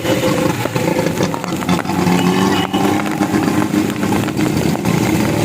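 Vehicle engines running, over a steady hiss with scattered clicks.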